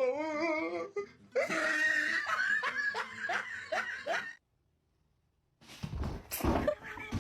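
A person laughing in short repeated bursts for about four seconds. After a brief silence, noisy thumps and rustling follow near the end.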